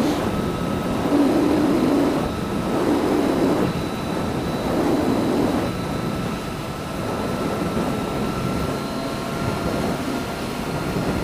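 Motorcycle on the move: engine and wind noise at a steady loudness, with a few louder swells in the first half and a thin steady whine above it.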